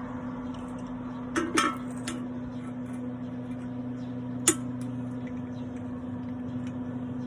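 Steady electrical hum, like an arc-welding machine's transformer, with a few sharp metal clinks and taps, the loudest a single clink about four and a half seconds in.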